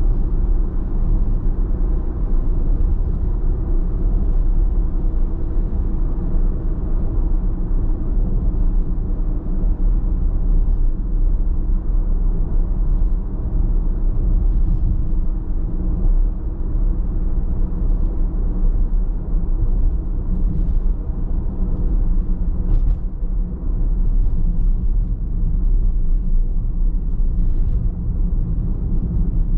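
Car driving at a steady speed: a constant low rumble of engine and tyre road noise, with a faint tick now and then.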